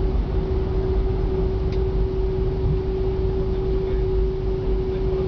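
Cabin noise inside a Boeing 747 airliner: a steady deep rumble of engines and airflow with a steady hum over it, and a faint click about two seconds in.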